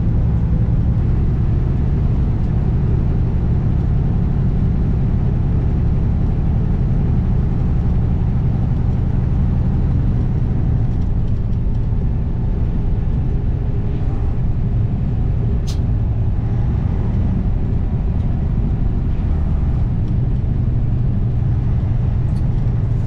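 Diesel engine of a 2021 Kenworth W900 semi-truck pulling steadily down the road, heard from the cab as a loud, even low drone with road noise. There is a single sharp click about two-thirds of the way through.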